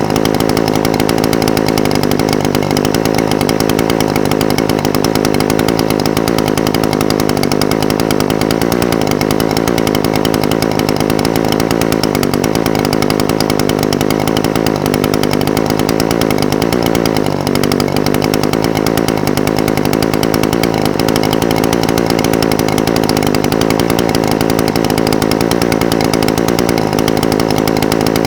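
Echo SRM-420TES brush cutter's two-stroke engine idling steadily, with the pitch wavering slightly around the middle.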